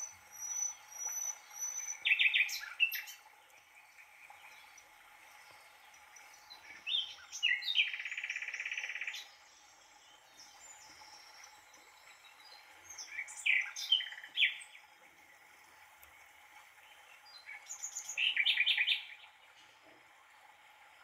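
Songbirds chirping in short bursts of song about every five seconds, over a faint steady hum.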